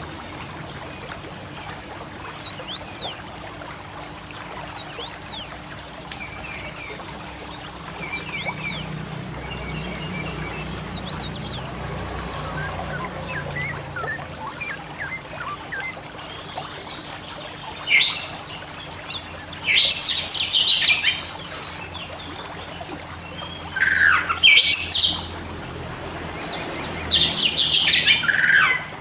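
Oriental magpie-robin (kacer) singing: faint scattered chirps and whistles at first, then four loud, harsh bursts of song in the second half, each lasting a second or two.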